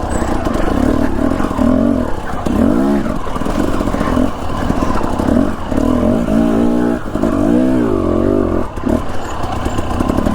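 Husqvarna TE250 enduro dirt bike engine under varying throttle on a trail, its pitch rising and falling again and again as it revs up and backs off.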